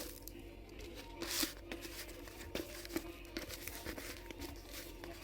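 Rustling and crinkling, with scattered light clicks and a louder click about a second and a half in.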